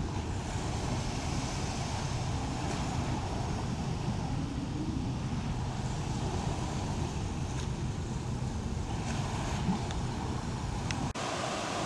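Steady rush of wind and sea with a low rumble, heard from the deck of a cruise ship under way at sea. The sound shifts abruptly near the end.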